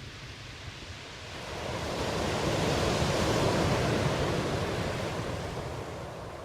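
Ocean waves breaking on the shore: one wave swells up about a second in, surges at its loudest midway, and washes back out toward the end.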